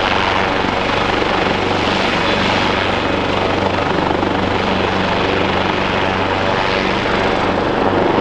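Helicopter running close by at a steady loud level: rotor and engine noise with a steady low hum underneath.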